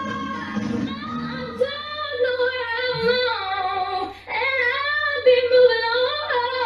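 A woman's solo singing voice on a high, sliding melodic line, with a brief gap about two-thirds through before she sings on. The voice flips between chest and head voice in a vocal break, or crack.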